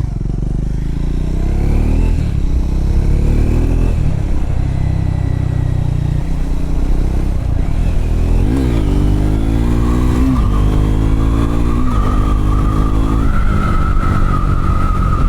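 Triumph Scrambler motorcycle engine running under way on a gravel road, pulling up through the gears with several shifts in the second half, each a brief drop in pitch before it climbs again. A thin rising whine joins it from about two-thirds of the way in.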